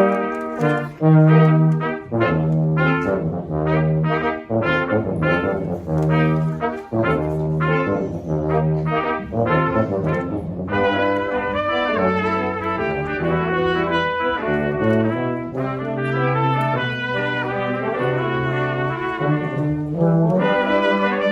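Brass quartet playing: short, separated notes over a repeated low bass note in the first half, moving into a smoother passage of longer held notes about halfway through.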